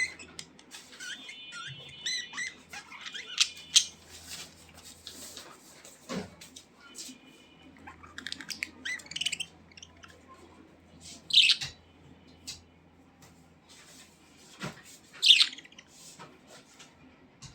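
Pet budgerigars chirping and warbling in short, scattered calls, with two louder sharp calls about eleven and fifteen seconds in, among short clicks.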